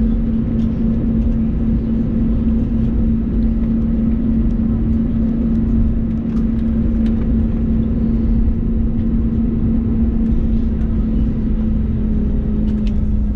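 Steady cabin drone of an Airbus A320neo airliner's engines and airflow heard from inside the passenger cabin: a constant low rumble with a strong, even hum.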